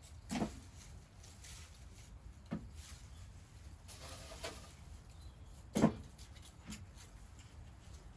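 A few soft knocks and handling sounds, the loudest about six seconds in, with a brief rustle in between.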